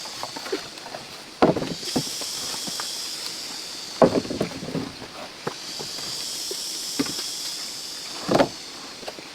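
High, steady insect chorus that swells and fades in slow waves, with three sharp knocks: about a second and a half in, about four seconds in, and near the end.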